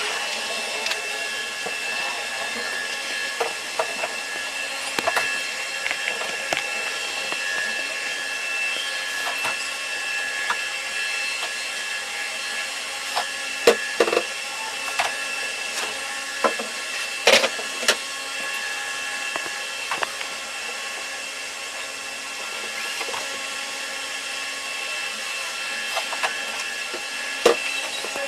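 A machine running steadily with a fixed whine, with scattered knocks and clicks over it, the loudest about halfway through.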